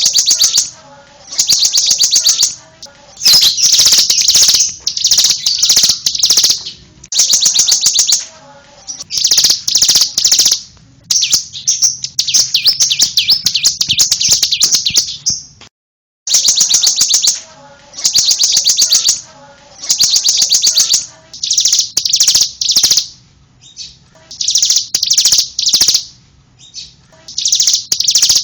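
Ciblek (bar-winged prinia) singing: rapid high trills in bursts of about a second, repeated with short pauses. The sound cuts out completely for a moment just past halfway.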